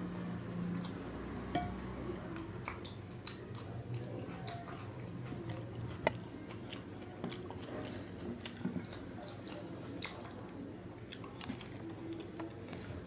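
Close-miked eating: chewing mouthfuls of jeera rice and dal makhni, and fingers squishing and mixing the rice on a steel plate. Scattered sharp clicks come through, the loudest about six seconds in.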